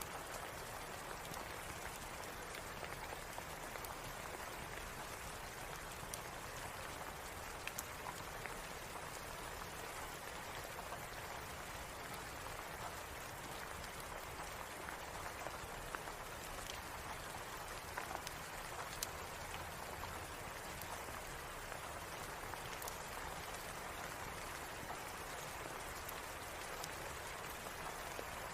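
Steady rain falling, an even hiss with scattered small sharp taps of drops.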